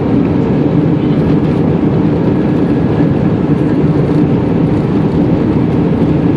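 Airliner cabin noise: engines and rushing air running steadily, heard from inside the cabin.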